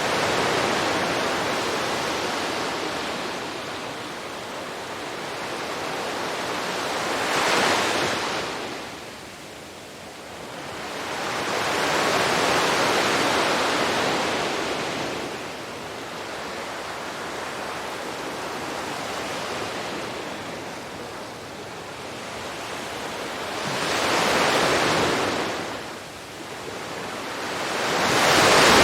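Sea waves breaking and washing up a beach: a steady surf hiss that swells and fades, with several louder breaks.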